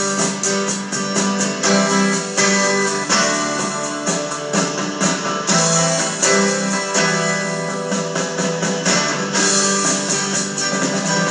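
Instrumental break of a rock song with strummed guitars playing over a steady beat, without singing.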